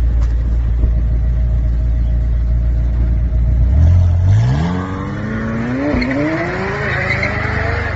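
Supercar engine with a deep low rumble, then accelerating hard from about four seconds in, its pitch climbing steadily with a brief dip near six seconds.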